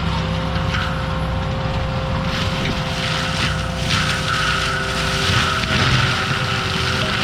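ASV RT-120F tracked forestry mulcher running under steady power, its engine and spinning mulcher head holding a constant hum and whine. A higher whine joins about four seconds in.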